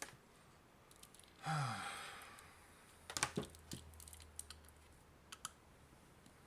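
A man's sigh about a second and a half in, falling in pitch, followed by a few light clicks and taps of the plastic adapter case being handled.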